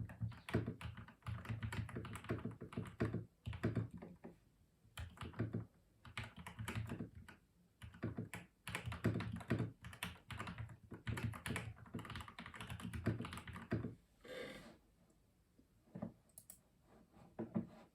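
Typing on a custom mechanical keyboard: quick runs of keystrokes broken by short pauses. The typing stops about three-quarters of the way through, followed by a brief, different sound and a few single clicks.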